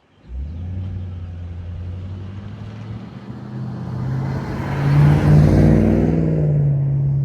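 Exhaust of a 2006 Ford Mustang GT's 4.6-litre three-valve V8, breathing through an H-pipe and Flowmaster FlowFX mufflers. The low, even note cuts in suddenly and holds steady, then rises in pitch and gets louder midway as the engine is revved or the car pulls away.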